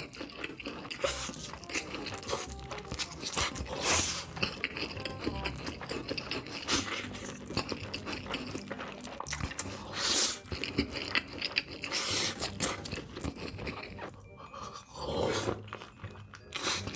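Close-miked eating: loud crunching bites every few seconds, with chewing between them.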